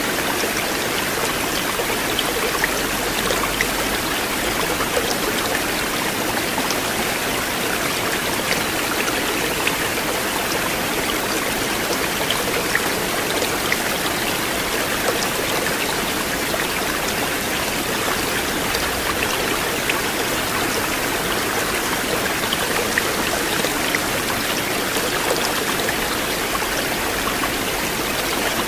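River water flowing steadily in an even, unbroken rush, with many small splashing ticks in it.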